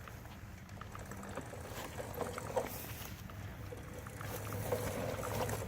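Mini bike's small single-cylinder engine idling steadily while it warms up, with scattered light clicks and brief rattles over it.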